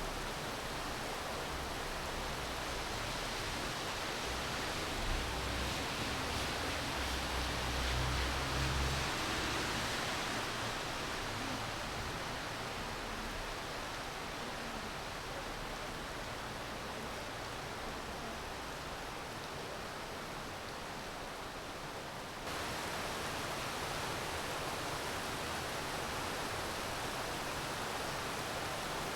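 Steady rainfall making an even hiss. A low rumble swells and fades in the first third, and about two-thirds through the sound changes suddenly to a slightly louder, brighter hiss.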